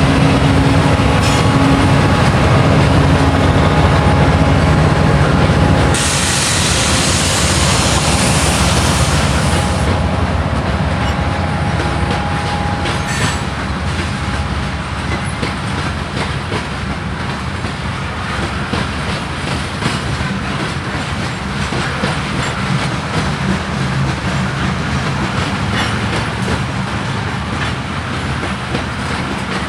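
Freight train passing: a diesel locomotive's engine drone for the first few seconds, then a loud hiss lasting about four seconds. After that come loaded grain cars rolling by with the clickety-clack of wheels over rail joints and some wheel squeal, slowly fading.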